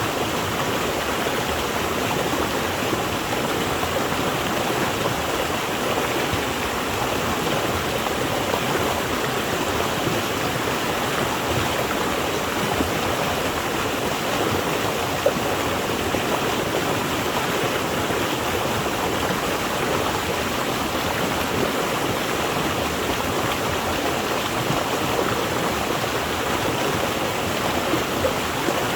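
Water flowing and splashing steadily over rocks in a stream or small waterfall, an even rushing noise with a single sharp drip or splash about 15 seconds in.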